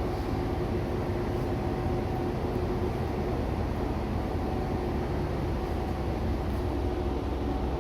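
Nagara Railway diesel railcar's engine running steadily: a low, even rumble with a faint hum.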